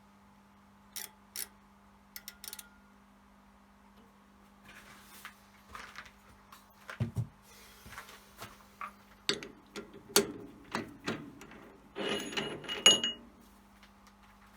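A series of sharp clicks and knocks, scattered at first and then bunching into a loud rattling cluster near the end, over a faint steady hum.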